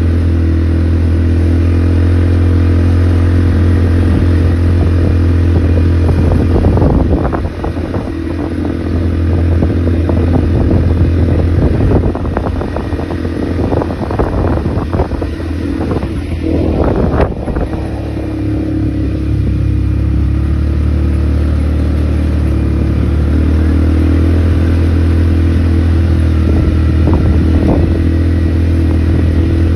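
ATV engine running with a steady low hum. For about ten seconds in the middle, the engine note shifts and there are many rattles and knocks; after that it runs steadily again.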